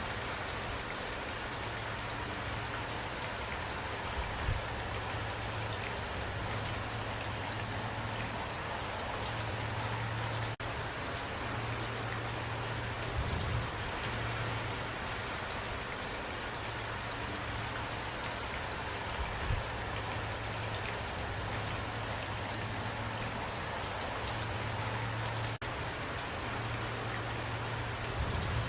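Steady rain falling, an even dense hiss of many drops, with sharper individual drop ticks scattered through it.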